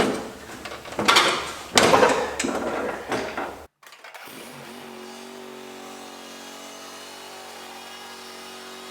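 John Deere D125 lawn tractor engine running as the tractor is driven up the loading ramps, with loud sudden bangs in the first few seconds. After a brief break, the engine runs steadily and more quietly.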